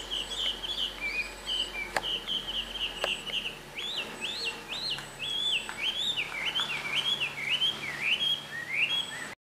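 A songbird singing a continuous run of varied chirps and whistled notes, some rising, some falling. Two faint ticks come about two and three seconds in.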